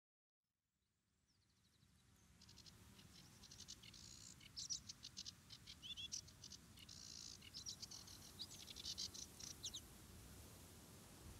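A small songbird singing a rapid run of short, high chirps and trills. It comes in about two seconds in and stops near the end, over faint steady background noise.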